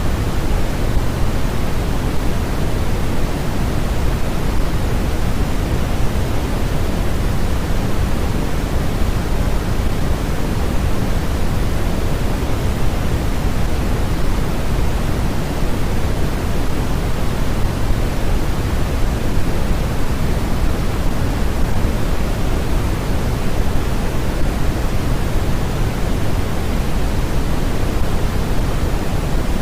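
Steady, unchanging generated noise of the kind played for sleep, an even hiss and rumble with more of its weight in the low end than the high, like pink noise.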